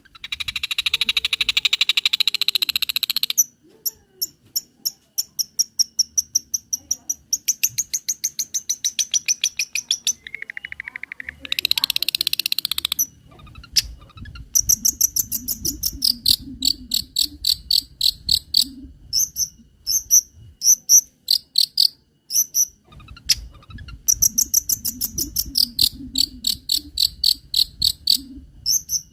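Long-tailed shrike (cendet) singing a varied mimicry song: long, high, buzzy stretches alternate with runs of rapid repeated high chirps.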